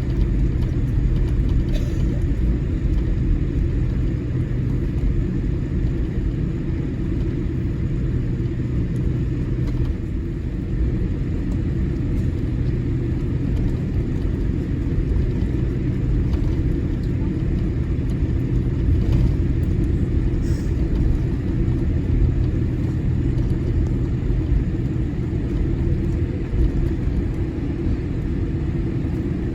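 Steady low rumble inside the cabin of a Boeing 787-8 Dreamliner taxiing to the gate, its engines at idle. A low hum in the rumble drops away about a third of the way through.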